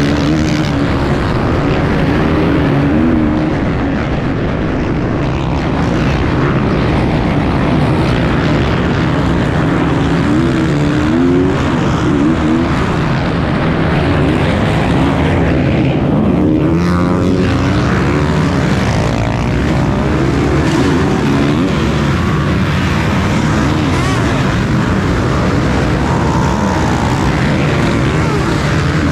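Enduro motorcycle engine heard from on board while riding, its revs rising and falling without a break.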